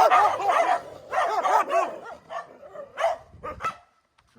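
A dog barking in a fast run of short yaps, about four or five a second, thinning out to a few scattered barks after about two seconds.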